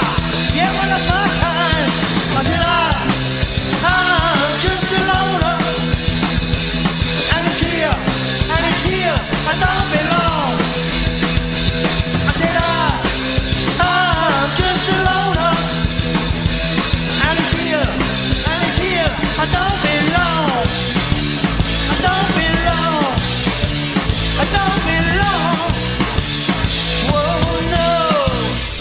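Live punk rock band recording with drums, bass and guitars, and a lead line that bends up and down in pitch, with no clear vocal. The recorded sound is a bit muddy.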